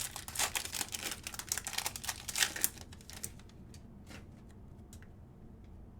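Trading cards being handled: a quick run of dry clicks and rustles for about three seconds, then a few scattered clicks.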